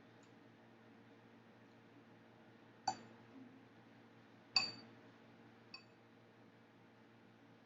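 Eating utensils clinking against a dish three times, with a brief high ring after each; the second clink is the loudest and the last is faint. A faint steady hum runs underneath.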